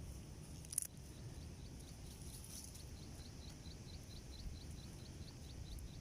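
Outdoor ambience: a low, steady background rumble with a faint chirping call repeated evenly about five times a second. A single short click comes just under a second in.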